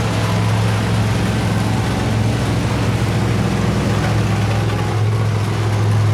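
Monster truck engine running with a steady, loud low drone.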